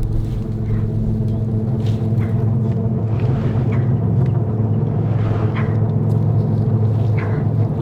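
A steady low engine hum, like an idling motor, with a few short scrapes scattered through it.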